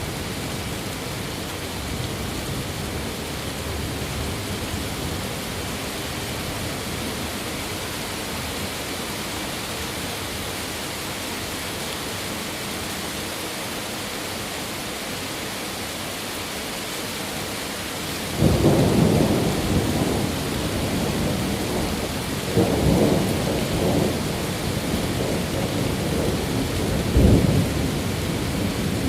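Steady rain falling, then about two-thirds of the way in a roll of thunder breaks in suddenly and rumbles on low, swelling twice more before the end.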